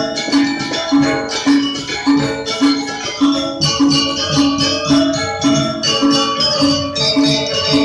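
Balinese gong kebyar gamelan playing dance music: bronze metallophones striking a repeating pattern of notes at about two strokes a second, with fast metallic rattling and jingling over the top.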